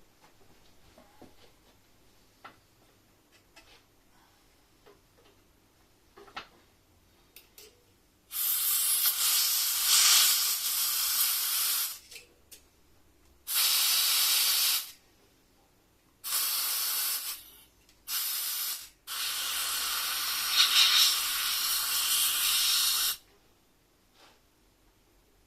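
Hissing spray in five bursts of one to four seconds each, with a few light clicks and taps before it.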